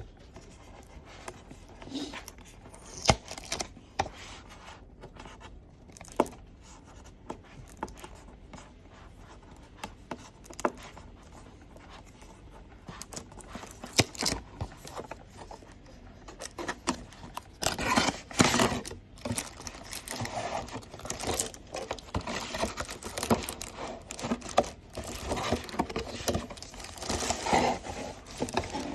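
Headset box and its packaging being handled and unpacked: scattered taps and scrapes, then busier, louder rustling, crinkling and scraping from a little past halfway.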